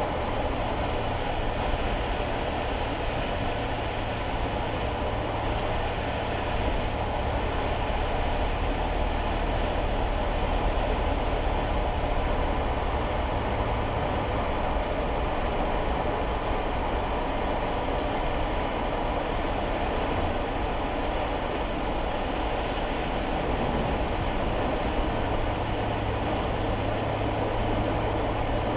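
Steady road and tyre noise with a low engine hum inside a kei car's cabin, driving on wet roads. The low hum eases about halfway through and comes back near the end.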